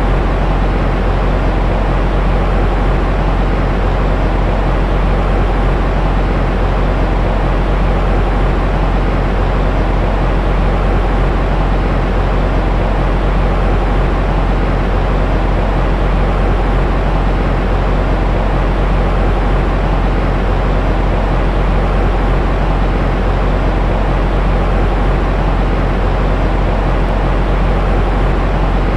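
Continuous white noise for soothing a baby: an even, unchanging rush, heavier and deeper in the low end than a bright hiss, with a faint steady hum underneath.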